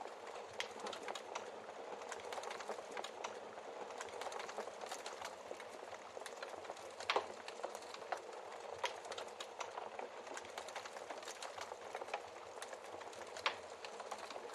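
Wood fire crackling steadily in a fireplace, with fine constant crackle and a few louder log pops, including a quick double pop about seven seconds in.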